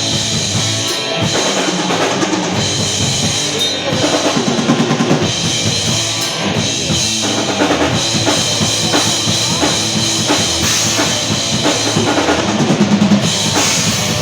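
Metal band playing, with the drum kit to the fore: fast, dense bass drum and snare hits over the rest of the band.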